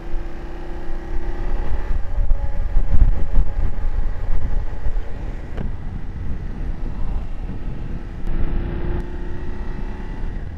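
BMW F750GS parallel-twin engine running under way, its note rising gradually near the start and again near the end, with heavy wind rushing over the microphone.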